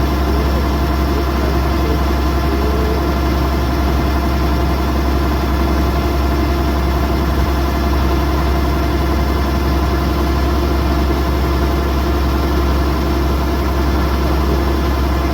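Kubota DC108X combine harvester's diesel engine running loudly and steadily, a deep drone with an unchanging pitch.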